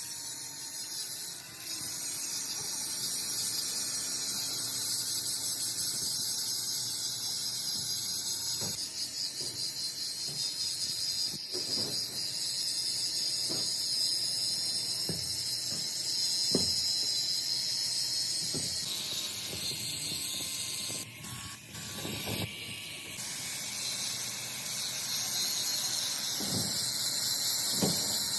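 Crankshaft turning in a lathe while being machined or finished, the metal-on-metal work giving a steady high-pitched squeal with scattered sharp clicks. The squeal briefly changes and drops about 21 seconds in, then carries on.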